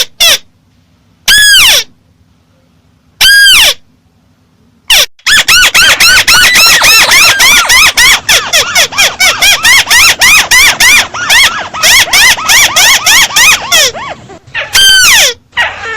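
Bird calls, the 'mắt xéo' bird, with the volume boosted until it clips: single sharp, harsh notes that rise and fall in pitch, then a fast chattering run of many such notes for about nine seconds, then a last note near the end.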